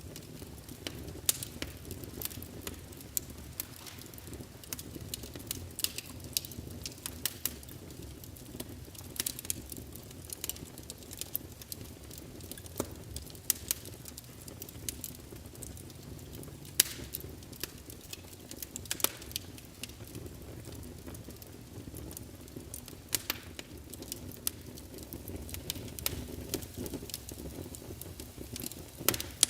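Fireplace crackling: irregular sharp pops and snaps over a low, steady rumble of the fire.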